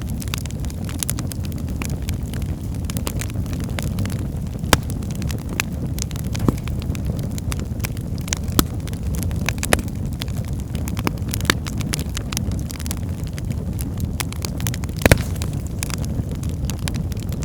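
Wood fire crackling in a fireplace: a steady low rumble of burning with frequent small snaps and pops. There is a louder pop about five seconds in and another about fifteen seconds in.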